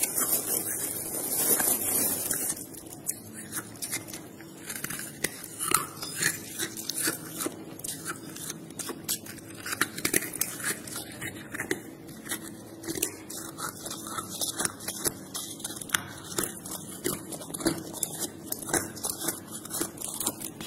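Freezer frost being bitten and chewed close to the microphone: irregular crisp crunches and crackles, louder for the first couple of seconds.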